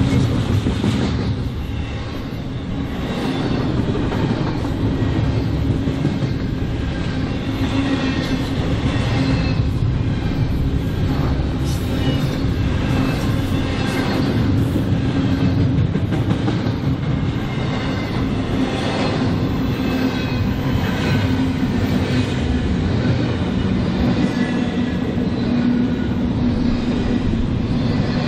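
Freight train cars rolling steadily past, a continuous rumble of wheels on rail with clicks repeating every second or so as the wheels cross rail joints.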